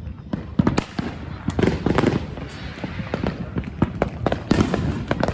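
Fireworks going off: many sharp cracks and bangs in an irregular volley, several a second.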